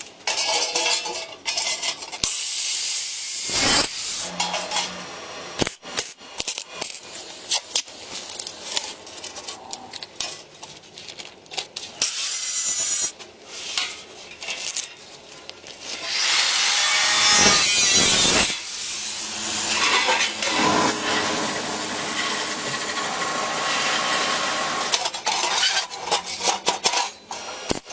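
Tools working material: uneven scraping and rasping with many scattered knocks and clicks, and a louder, steadier stretch of about two seconds a little past halfway.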